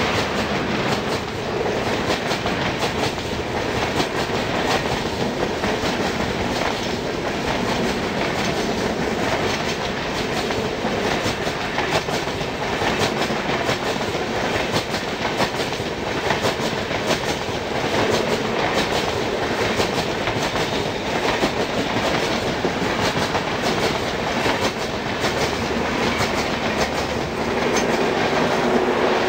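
LHB passenger coaches of an express train rolling past, their wheels clattering on the track in a steady stream of clicks.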